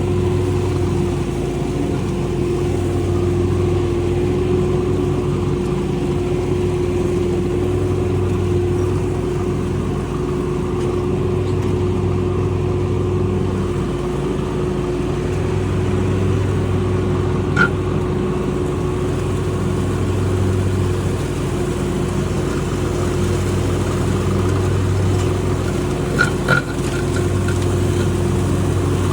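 An engine running steadily, its low drone swelling and easing every few seconds, with a few short clicks about two-thirds of the way in and near the end.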